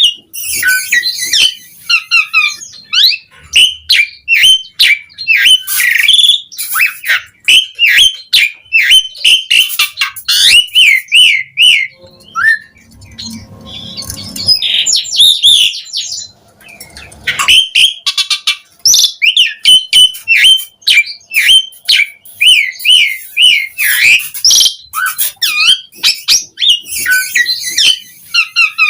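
Asian pied starling (jalak suren) singing continuously: a fast run of whistles, chirps and harsh squawks, easing off briefly about halfway through before resuming.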